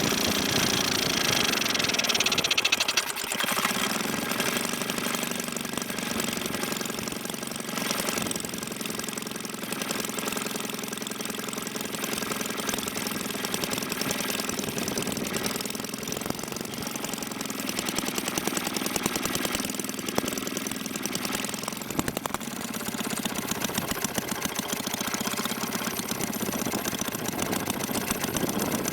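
Maytag Model 72D two-cylinder, two-stroke washing-machine engine running steadily on its carburetor. It eases slightly and gets a little quieter about three seconds in.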